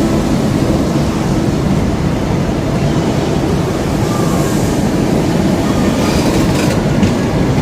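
Greater Anglia passenger train hauled by a Class 90 electric locomotive, rolling through the station as it pulls away. The coaches give a steady rumble, with wheels clicking over rail joints several times near the end.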